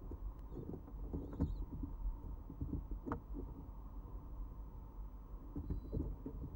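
Stock dove squabs and a parent shuffling and scratching in the nest box during crop-milk feeding: an uneven scuffle of soft knocks and patters, with one sharper click about three seconds in.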